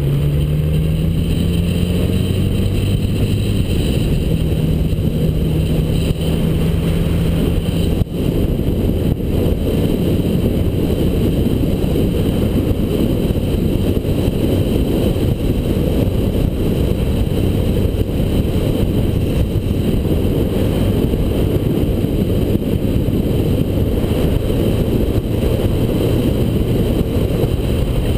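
1979 Honda GL1000 Gold Wing's flat-four engine running on the move, its note rising over the first few seconds and then holding steady, under a heavy rush of wind on the microphone.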